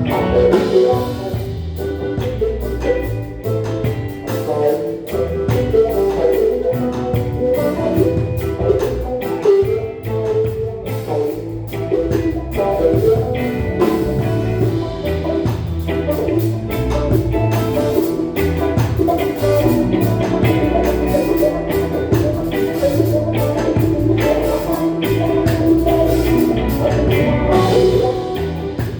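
Live band playing an instrumental passage: drum kit keeping a steady beat under bass, electric guitar and keyboard.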